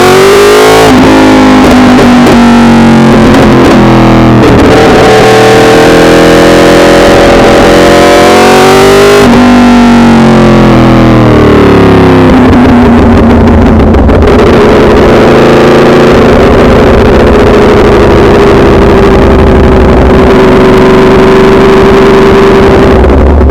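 Yamaha R1's inline-four engine under way, its pitch climbing and then dropping sharply at gear changes about a second in and about nine seconds in, before holding a steady pitch from about thirteen seconds. The recording is loud and distorted.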